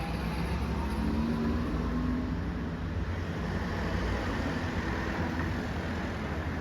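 Honda CT125 Hunter Cub's air-cooled single-cylinder engine idling steadily through an aftermarket Takegawa muffler.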